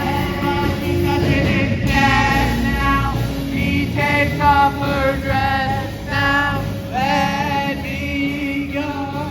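Live band music with a singer, held notes sung with vibrato over a steady full band.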